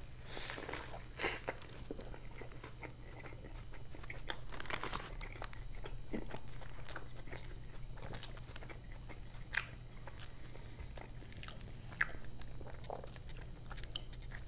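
A person biting into a beef burger and chewing it with wet mouth sounds and small clicks, and one sharper click about ten seconds in.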